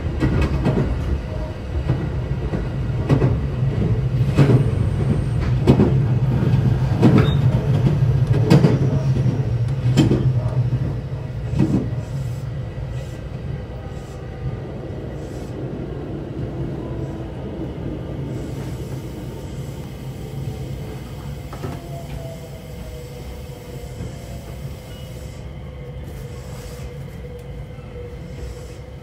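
Onboard running sound of a JR West local electric train: a loud low rumble with a wheel clack over the rail joints about every second and a half, then, about twelve seconds in, the sound drops and a falling motor whine sets in as the train slows.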